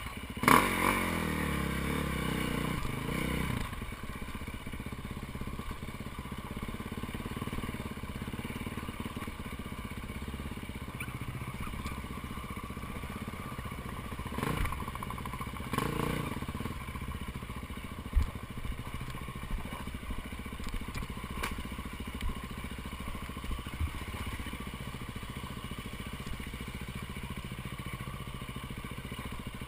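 A vehicle engine falls in pitch over the first few seconds as it comes off the revs, then runs steadily at a lower level, with occasional knocks and clatters.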